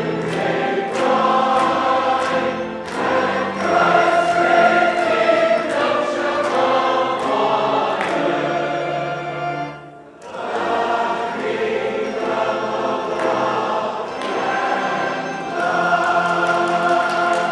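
Church choir singing a hymn in several voices, with a short break between phrases about ten seconds in.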